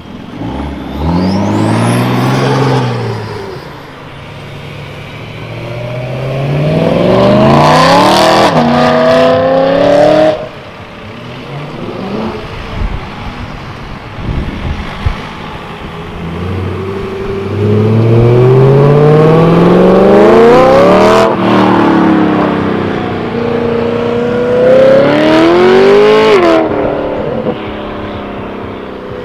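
Cars accelerating hard one after another, each engine revving up with its note climbing steeply in pitch. There are four runs. The loudest come in the middle and near the end, and one cuts off suddenly about ten seconds in.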